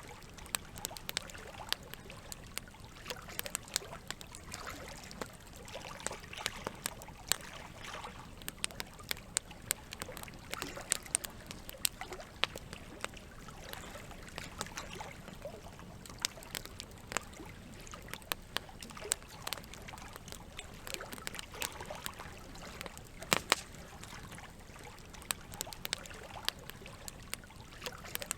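Campfire crackling, with irregular sharp pops and snaps, a few of them much louder, over a steady trickle of running water.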